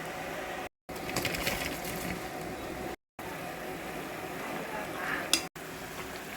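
Kitchen cooking sounds: a steady background hum with light clinks of utensils against dishes about a second in and a sharp click near the end, broken by short silent gaps.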